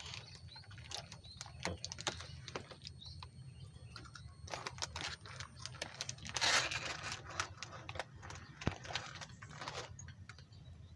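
Irregular light clicks and knocks of hand work, with a short scraping rustle about six and a half seconds in, over a steady low hum.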